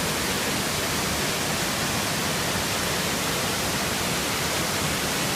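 Steady, even rush of a large waterfall, loud and unbroken.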